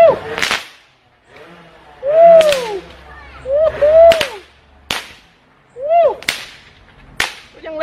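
Multi-shot firework candles fired from a homemade PVC-pipe launcher: about six sharp bangs spread out over several seconds. Several of the bangs come just after a loud, short whistle that rises and then falls in pitch.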